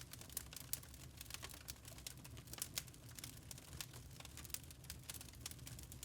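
Wood fire burning in a fireplace, crackling with irregular small sharp pops over a low steady rumble of the flames.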